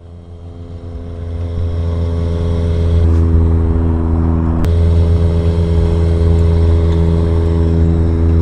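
An engine running steadily: a low, even hum that swells over the first few seconds, then holds, its pitch shifting slightly twice with a single click in the middle.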